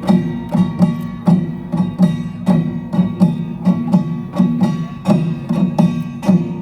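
Utdari samul nori percussion ensemble playing: kkwaenggwari, janggu, buk and jing struck together in a steady, driving rhythm, the small gong ringing over the drums.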